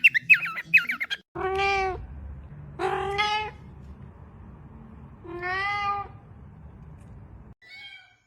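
A cat meowing three times, each meow a single drawn-out call of well under a second, spaced one to two seconds apart. A second or so of quick, high chirping calls comes before the meows.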